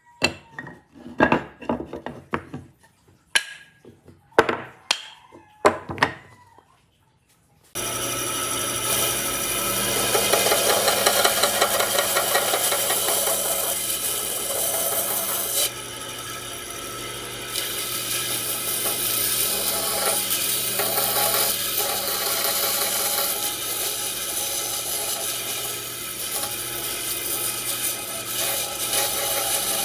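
A series of sharp, irregular knocks on wood. About eight seconds in, an electric power tool starts up abruptly and runs continuously against the wood, a loud steady noise over a low motor hum.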